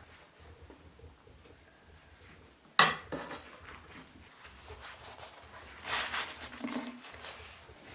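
Kitchenware being handled: one sharp knock about three seconds in, then softer clinks and scraping.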